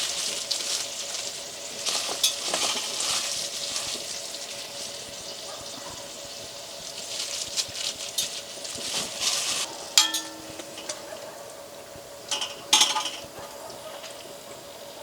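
Cooking sounds with dishes and utensils: a hissing, rustling noise, then a sharp ringing clink of a utensil on a dish about ten seconds in and two more clinks near the end, over a faint steady hum.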